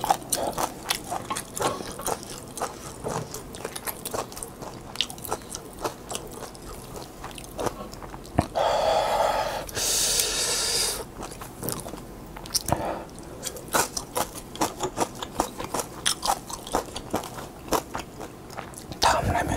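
Close-miked chewing of instant yakisoba noodles: many small wet mouth clicks and bites, with a burst of noise lasting about two seconds a little before halfway.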